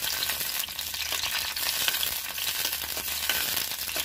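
Green chillies sizzling in hot oil in a steel kadai, stirred with a steel ladle, with scattered small clicks and pops over a steady hiss.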